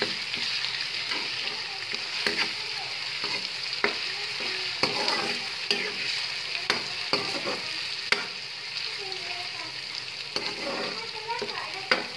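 Garlic-ginger paste and browned onions frying in hot oil, sizzling steadily while a spoon stirs them. The spoon knocks and scrapes against the metal pan every second or so.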